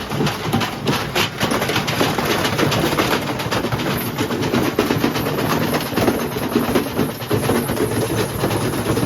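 Beko washing machine drum turning with a broken drum spider, giving a loud, continuous, fast rattling and clattering of knocks.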